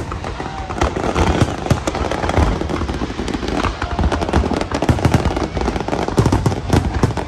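Fireworks display: a rapid, continuous barrage of bangs, pops and crackles with no break.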